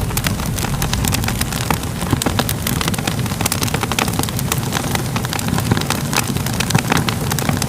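Crackling wood fire: a steady low rumble of flames with frequent sharp pops and crackles.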